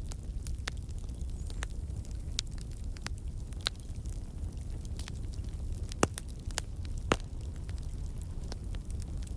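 Wood campfire burning: a steady low rumble of the flames with scattered sharp pops and crackles from the logs, the two loudest about six and seven seconds in. The crackling comes from water and sap in the wood turning to steam and bursting out.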